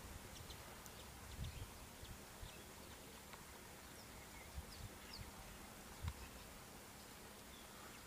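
Faint outdoor quiet with scattered short, faint bird chirps, and a few dull low thumps about a second and a half in and again about six seconds in.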